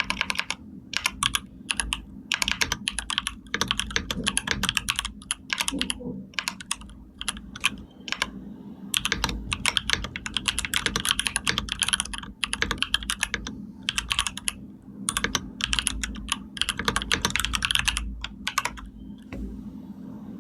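Computer keyboard typing in rapid runs of clicks lasting a few seconds, separated by short pauses, with a steady low hum underneath. The typing stops near the end.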